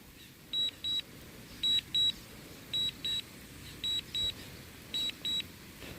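DJI RC-N1 remote controller sounding its warning alarm: pairs of short, high beeps repeating about once a second, the alarm given as the drone's battery runs out.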